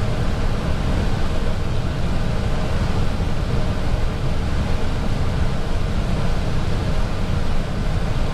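Steady deep rush of airflow and engine noise on an Airbus A320 flight deck on final approach.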